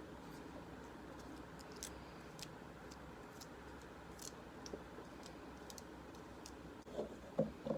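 Faint, irregular clicks of a knife against a pine cone's scales as peanut butter is spread into them.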